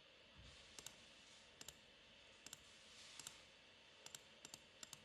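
Computer mouse button clicked about seven times at uneven intervals, each click a quick pair of ticks from press and release, faint over a low room hiss.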